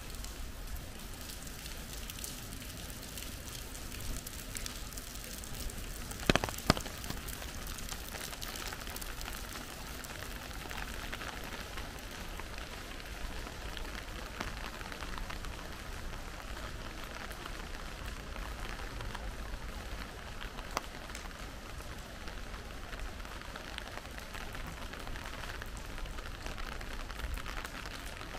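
Steady rain falling, with many small drip ticks throughout. Two sharp clicks just after six seconds in are the loudest sounds, and a fainter one comes about two-thirds of the way through.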